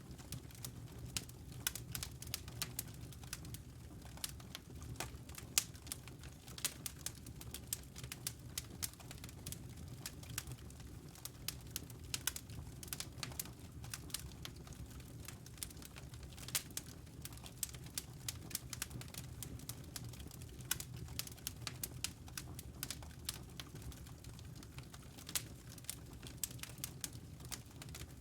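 Wood fire in a fireplace crackling, with frequent irregular small pops and snaps over a low, steady rumble.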